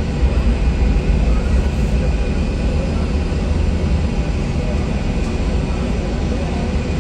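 Aircraft jet engines running with a steady low rumble and roar, and a faint high whine over it.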